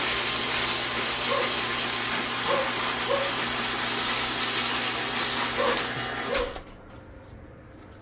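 Electric power tool spinning a starter armature in its chuck while sandpaper is held against it to clean the built-up contacts, a steady hiss over a low motor hum. The tool is switched off about six and a half seconds in and the sound drops away.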